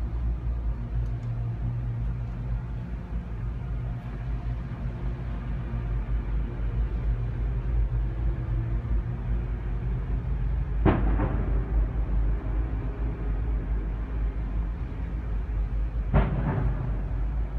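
A deep, steady rumble in the sky, broken by two sudden loud cracks, one about eleven seconds in and one near the end.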